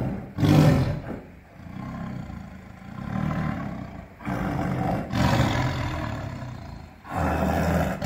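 Tiger roaring and growling in a series of long, low calls, loudest just after the start and again near the end.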